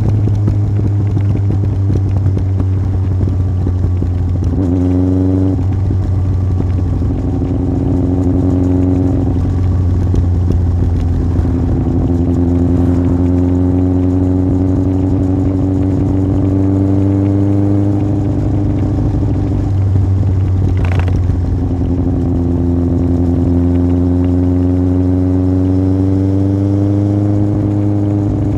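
Yamaha Fazer 1000's inline-four engine through an aftermarket MIVV exhaust, riding under load. Its pitch climbs slowly with the revs, drops about two-thirds of the way through, then climbs again, with a quick rev up and down about five seconds in.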